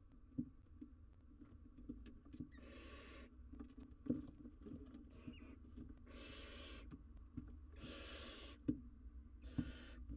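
Barn owl owlets hissing, four breathy hisses each under a second long, with soft knocks and scrapes between them.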